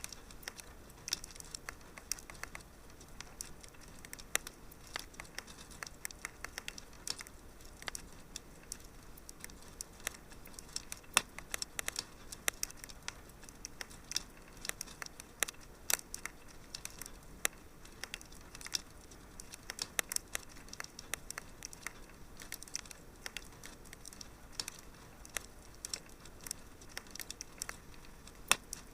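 Wood fire in a fireplace crackling, with irregular sharp snaps and pops over a soft steady hiss.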